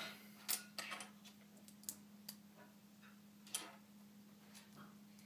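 Plastic Lego pieces being handled and pressed together: a handful of light, separate clicks, with a faint steady hum underneath.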